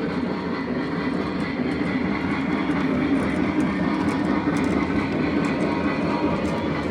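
Lionel O gauge 4-6-0 model steam locomotive running around a three-rail layout: a steady running rumble of the model train on the track.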